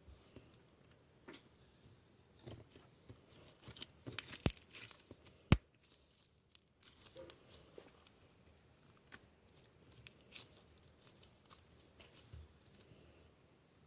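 Light, scattered rustling and crinkling with small ticks, and two sharp clicks about four and a half and five and a half seconds in.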